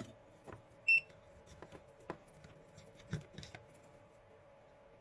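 A single short electronic beep about a second in, the loudest sound, among light clicks and taps of small parts and tools being handled, over a steady faint hum.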